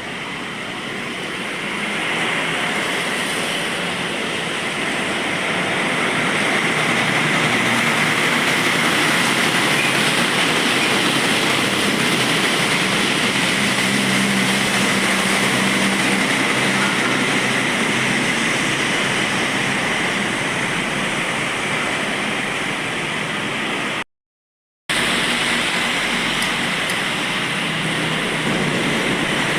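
Heavy traffic on a wet road: container trucks passing with a steady hiss of tyres on the wet surface. The sound rises about two seconds in and cuts to silence for about a second near the end.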